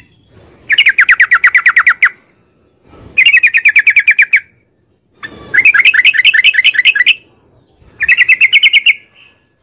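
Yellow-vented bulbul (trucukan) singing its rapid trill song, about ten notes a second. It comes in four bursts of a second or so each, with short pauses between.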